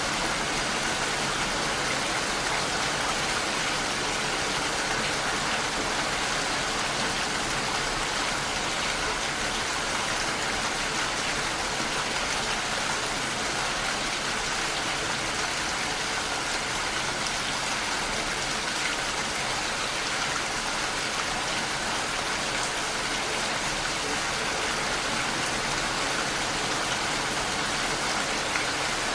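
Steady rain falling against a window pane, an even hiss of drops with no breaks.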